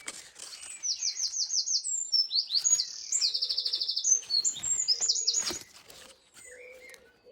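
A songbird singing loudly: a run of high, very rapid trills and chirps lasting about four and a half seconds.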